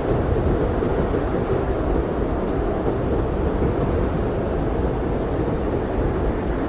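Blizzard wind blowing steadily: an even, low rushing noise with no gusts, breaks or separate events.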